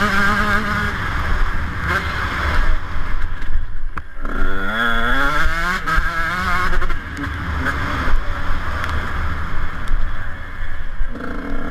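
Motocross bike engine running under throttle, its pitch wavering up and down. The revs drop about four seconds in, then climb steadily as it accelerates.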